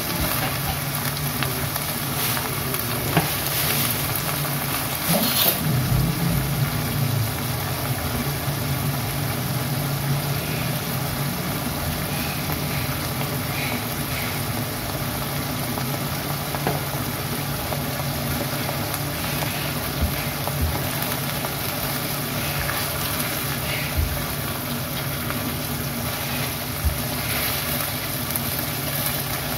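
Fern greens sizzling as they are stir-fried in a pan on a gas stove, with a spatula knocking and scraping against the pan now and then, over a steady low hum.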